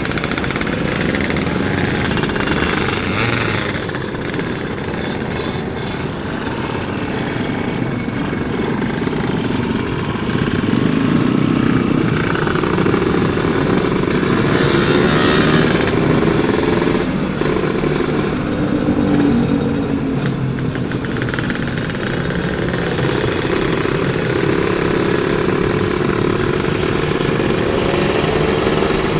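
Kawasaki 150 cc two-stroke motorcycle engine running while being ridden, its pitch rising and falling as the rider works the throttle through the gears.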